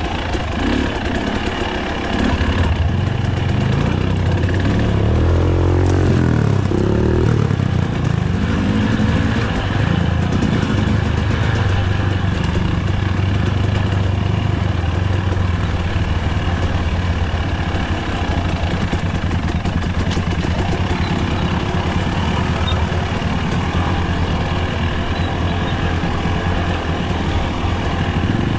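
Enduro dirt bike engine running under throttle. It gets louder about two seconds in, revs up and down a few seconds later, then holds a fairly steady note.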